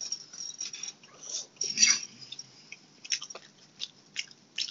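A person chewing food close to a phone's microphone: irregular short clicks and smacks of the mouth.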